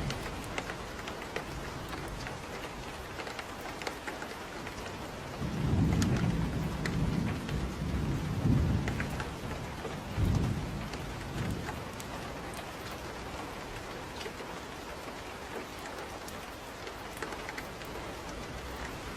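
Steady rain falling, with scattered drop ticks. A low rumble of thunder rolls in about five and a half seconds in and lasts a few seconds, and a shorter rumble follows around ten seconds in.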